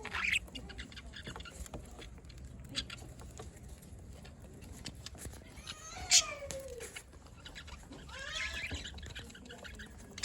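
Pet budgies chirping with short sharp calls, with a louder, longer call falling in pitch about six seconds in and a burst of arched calls a couple of seconds later.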